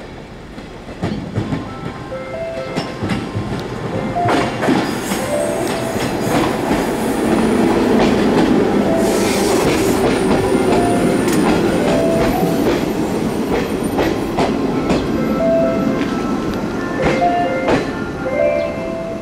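JR 105 series electric train pulling into a station: wheels click over points and rail joints, and a rumble grows loudest as the cars pass close. The rumble eases as the train slows to a stop near the end.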